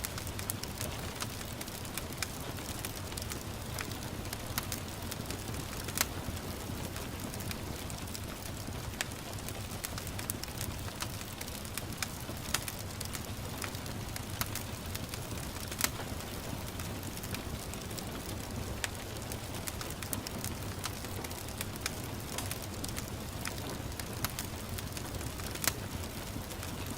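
Wood fire crackling with irregular small pops and a few sharper snaps, over a steady hiss of gentle rain.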